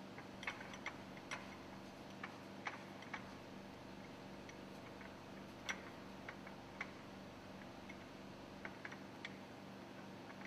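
Faint, irregular light metallic clicks and taps, about a dozen of them with the loudest a little past the middle, over a steady low machinery hum.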